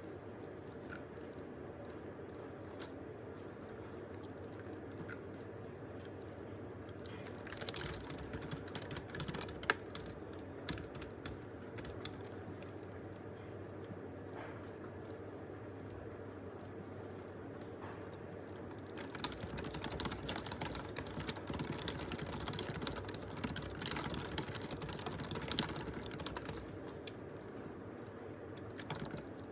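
Typing on a computer keyboard in two spells of rapid key clicks, a short one about a quarter of the way in and a longer one past the middle, over a steady low hum.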